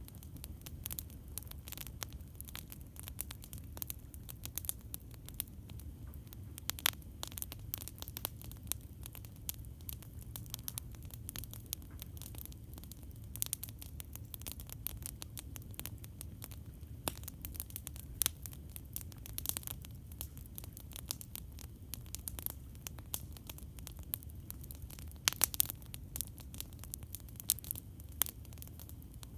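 Campfire crackling: irregular sharp pops and snaps of burning wood over a steady low rumble, with a quick cluster of louder pops toward the end.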